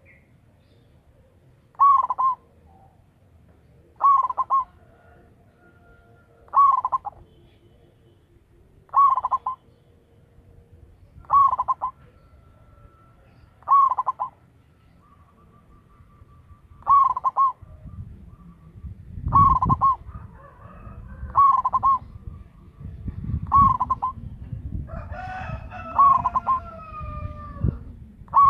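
Zebra dove (perkutut) singing its cooing phrase over and over, a short loud call about every two and a half seconds, eleven times.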